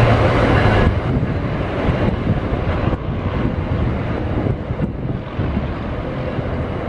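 NJ Transit passenger train, locomotive and coaches, rolling past close by as a steady rumble, loudest in the first second and easing slightly after. Wind buffets the microphone.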